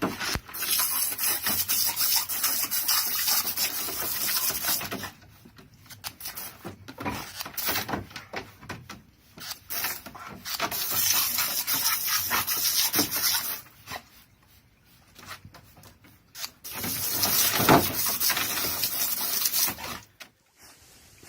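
Water spraying and splashing in three long stretches of hiss with scattered knocks, broken by quieter gaps.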